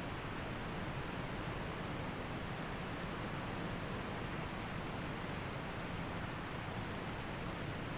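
Steady rushing of water at a waterfall, an even, unbroken noise with no separate splashes or other events.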